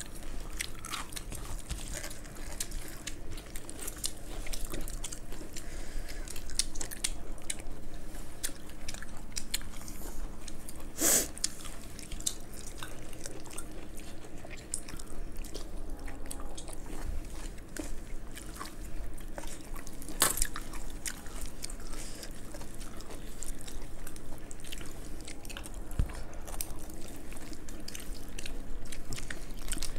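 Several people chewing and eating close to the microphone, with the wet sounds of saucy fried rice and veg Manchurian being picked up and eaten by hand. Two sharper clicks stand out, about a third of the way in and again two-thirds in.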